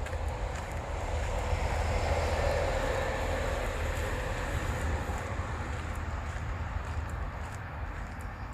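A distant vehicle passing by: a steady rumble with a faint whine that swells about two to three seconds in and then slowly fades.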